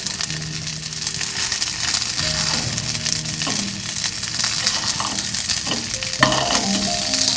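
Steak sizzling and frying in a hot pan, a steady hiss with a couple of sharp clicks partway through. Soft background music with held notes underneath.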